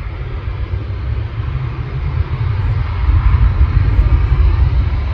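Jet airliner's engines, a loud rumble with a faint whine, swelling to their loudest about three to four seconds in.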